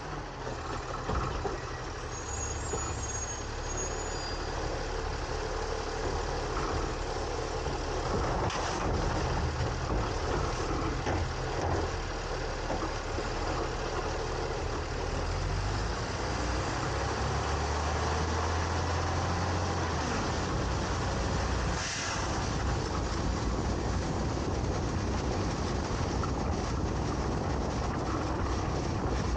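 Garbage truck with a New Way Sidewinder side-loader body running, heard from inside its hopper: steady engine and mechanical noise. A low hum swells past the middle, and there is a single sharp knock later on.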